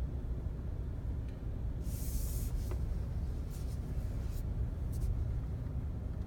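Steady low road rumble inside a Volkswagen Passat B8's cabin while driving, with several brief high hissing creaks: the longest about two seconds in, shorter ones around three and a half, four and five seconds in.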